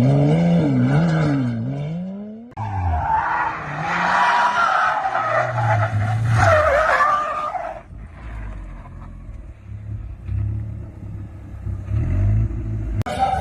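A car engine revving up and down. After a sudden cut, tyres squeal loudly as a car skids for about five seconds. Then another car's engine runs at lower, unsteady revs.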